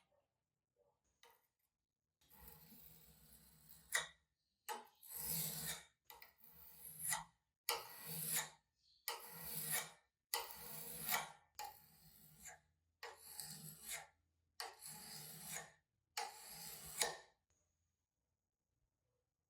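A hand tool drawn across wood in about ten rasping strokes, roughly one every second and a half, each ending in a sharp click.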